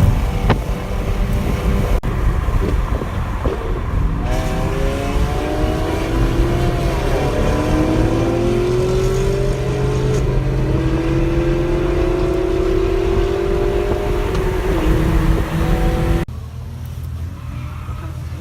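Several cars accelerating hard in a highway street race, their engine notes climbing steadily in pitch over about ten seconds above a dense rumble. The sound drops away abruptly near the end.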